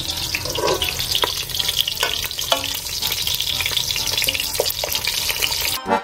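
Whole shallots sizzling steadily as they brown in hot olive oil in an aluminium pot, with a few light knocks of a wooden spoon against the pan as they are turned. Accordion music cuts in at the very end.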